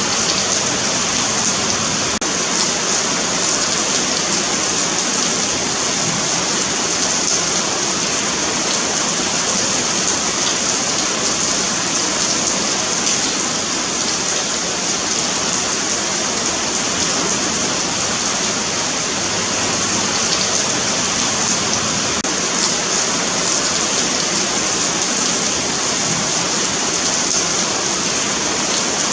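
Steady rain falling on a paved sidewalk, a continuous even hiss of drops hitting the pavement.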